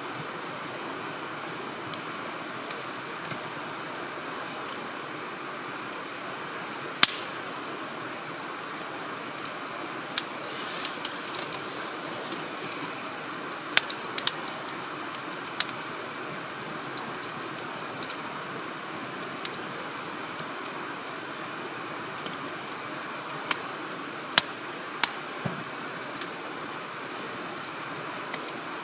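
Wood fire crackling: scattered sharp pops and snaps over a steady hiss, with the loudest pop about seven seconds in and a brief hiss around eleven seconds.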